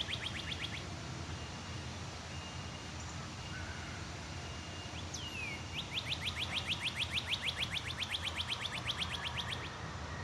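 Backyard birdsong: a bird calling in fast runs of sharp repeated chirps, about seven a second, briefly at the start and again for several seconds from about six seconds in, with a single falling whistle just before. Steady low outdoor background noise underneath.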